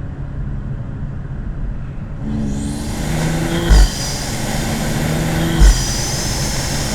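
BMW G30 5 Series' B58 turbocharged straight-six pulling hard under acceleration from about two seconds in. Loud intake sucking noise and a high turbo whistle come from the aftermarket cold air intake. Two sharp, loud thumps come a couple of seconds apart near the middle.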